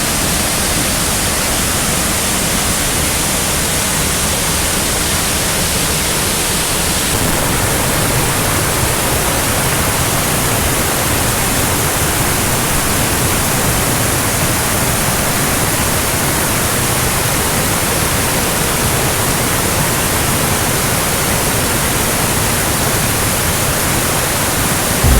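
Waterfall pouring, a steady, loud rush of water whose tone shifts slightly about seven seconds in.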